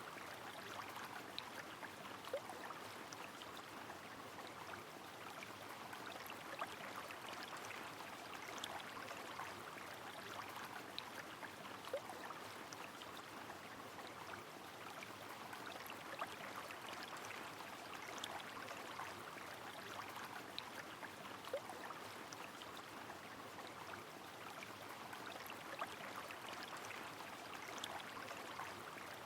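A river running steadily with rain falling, a continuous even rush of water broken by scattered small sharp drips and plinks.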